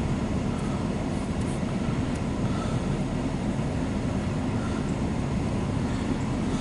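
Steady low mechanical rumble, even throughout, with no distinct knocks or clicks.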